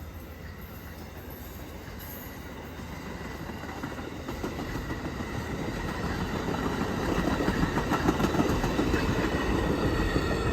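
Amtrak passenger train led by a single diesel locomotive rolling along the track, a steady rumble of wheels on rail that grows steadily louder as it draws near, with faint wheel clicks over the rail joints in the second half.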